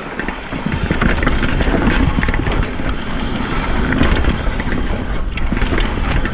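Wind rushing over the microphone, mixed with tyre noise and rattling knocks from a downhill mountain bike rolling over rough ground.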